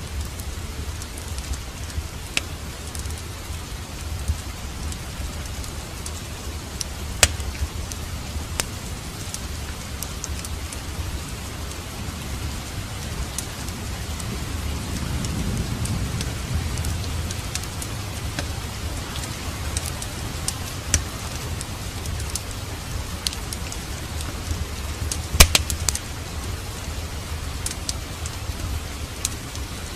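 Steady rain with scattered sharp pops and crackles of a wood fire burning in a fireplace, the loudest pops about a quarter of the way in and near the end. A low rumble swells briefly about halfway through.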